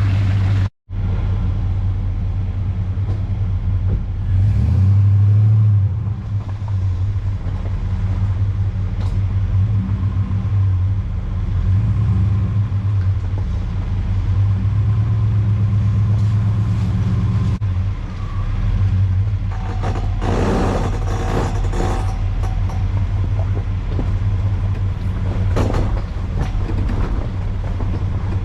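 Chevy Suburban driving on gravel and dirt trails, heard from inside the cab: a steady low rumble of engine and tyre noise. The sound cuts out briefly about a second in.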